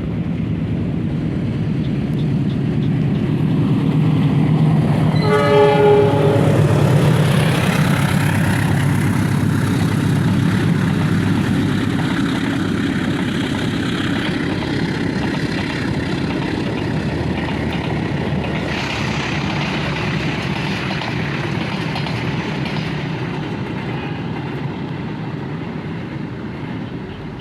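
Vintage locomotive hauling a train past, its engine running, growing louder and then slowly fading as it goes by. It sounds its horn once, briefly, about five seconds in.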